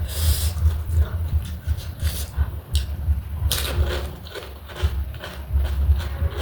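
Close-miked chewing and crunching of panipuri, the crisp puri shells being bitten and chewed, in irregular short bursts with two louder crunches, near the start and about three and a half seconds in.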